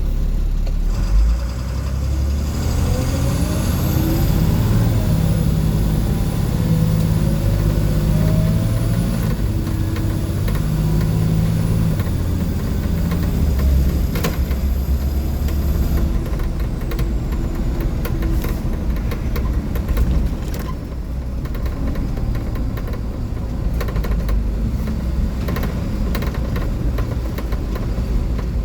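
The International DT466E inline-six diesel of a 2004 Blue Bird school bus running under way, a steady low rumble with its pitch rising over the first few seconds as it pulls. A thin high whine sits above it for a while, and short rattles and clicks from the bus body come through the second half.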